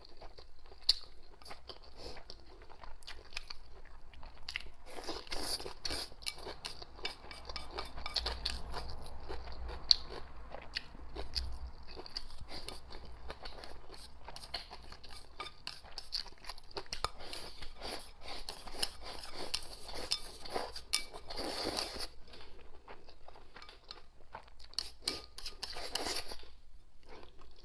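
Close-miked eating: continual crunching and chewing of food, with a couple of sharp clicks.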